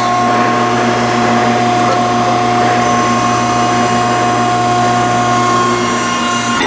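Ellis band saw running steadily through a cut in 3/8-inch steel flat bar: an even machine hum with a constant high whine.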